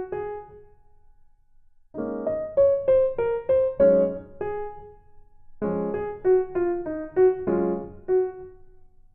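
Background music: a light piano or electric-piano melody in short phrases of quick notes, pausing for about a second near the start.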